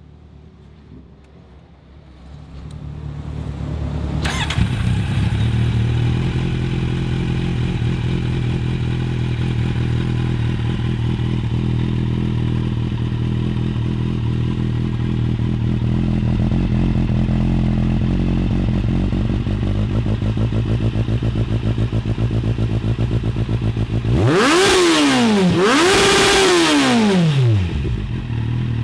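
The inline-four engine of a 2013 Kawasaki Z800, heard through its Yoshimura R77 slip-on exhaust, grows louder over the first few seconds and settles into a steady idle. Near the end it is revved twice in quick succession, rising and falling each time, and then drops back to idle.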